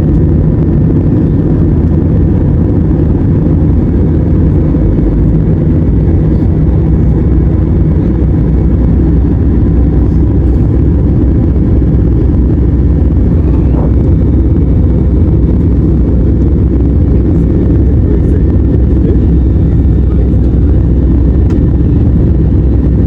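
Steady, loud low rumble of a vehicle in motion, unchanging throughout.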